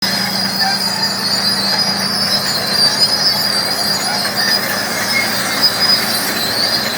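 Caterpillar D8R crawler bulldozer running, with a steady low diesel hum under a wavering high-pitched whine.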